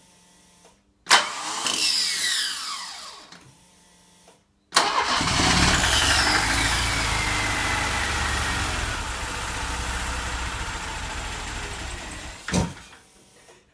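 Mercedes-Benz M102 2.3-litre four-cylinder petrol engine being started. It catches about a second in and dies away over a few seconds. It is cranked again and runs for about eight seconds before cutting off with a sharp knock near the end. The mechanics suspect it is not firing on all cylinders.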